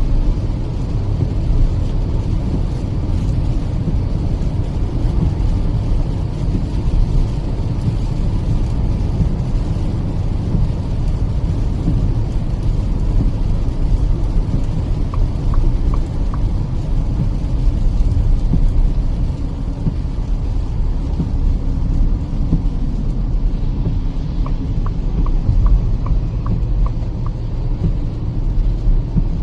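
Steady road and engine noise inside a Kia Seltos petrol car driving in the rain: a low, even rumble of tyres on the wet road. Twice, around the middle and near the end, a short run of faint evenly spaced ticks comes through.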